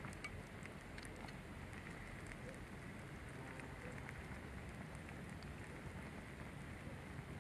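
Wood fire burning faintly in a small fire pit: a steady hiss with scattered light crackles.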